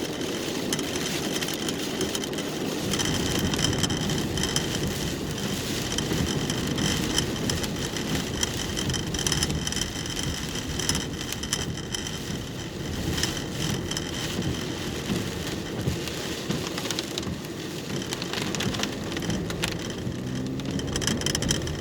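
Rain pattering on a car's roof and windshield, heard from inside the cabin, as a steady hiss with many small drop clicks. A faint steady high tone sits over it from about three seconds in.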